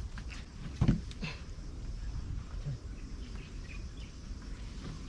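Outdoor ambience: a steady low rumble with a few faint high chirps, and one thump about a second in.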